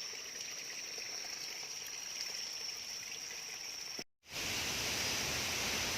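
Rushing river water, a steady wash of noise, with a steady high-pitched tone over it. About four seconds in the sound cuts out for a moment, and the water comes back louder.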